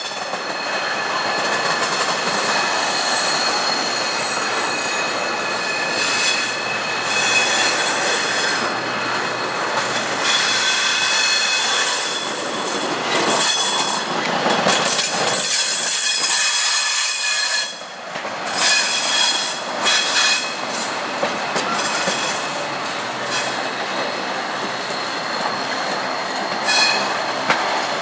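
Norfolk Southern intermodal freight cars rolling past slowly, their steel wheels squealing on the rail with steady high-pitched tones over the rumble and clatter of the train. The sound swells and dips as the cars go by, and drops briefly about two-thirds of the way through.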